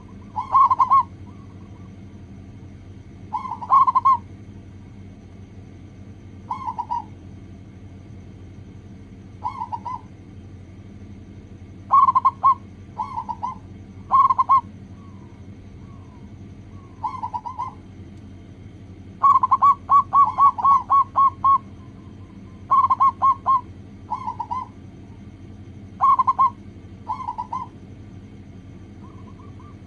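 Zebra dove (local perkutut) cooing: short phrases of quick staccato coos come every few seconds, with a longer run of rapid coos about two-thirds of the way through. A steady low hum runs underneath.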